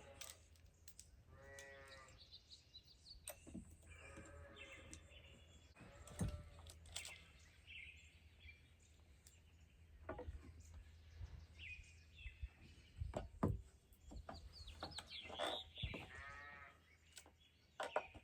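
Faint cattle mooing: about four drawn-out calls, one about a second and a half in, more around four and six seconds, and a longer one near the end. Scattered light clicks and knocks run between the calls over a low steady hum.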